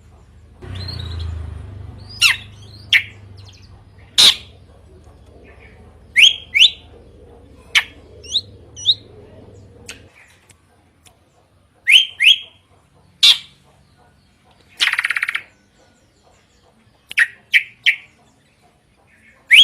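Drongo (srigunting) singing: a series of loud, short whistled notes, many sweeping sharply upward, given singly and in quick pairs, with one harsh buzzy call about 15 seconds in. A low hum sits under the first half.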